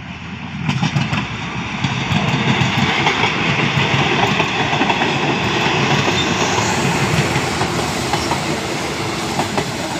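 Diesel railcar train passing close by, its wheels clacking over the rail joints over a steady rumble. The noise swells about a second in and stays loud, easing a little near the end.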